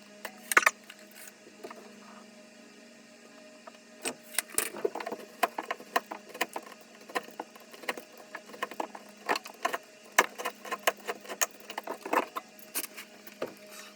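A sharp clatter about half a second in, then irregular clicks and rattles, several a second, like objects being handled, over a faint steady hum.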